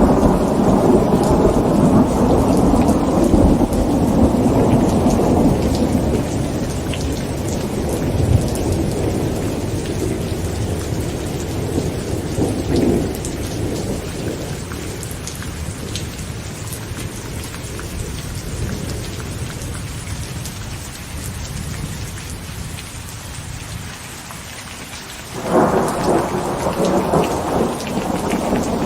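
Heavy rain drumming on tent fabric, with rolling thunder that fades away over the first dozen seconds. A new thunder peal breaks in suddenly near the end.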